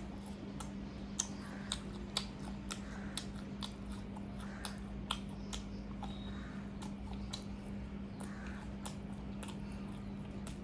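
Close-up crunchy chewing and biting of fried chicken pakoda, with irregular crisp crackles several times a second.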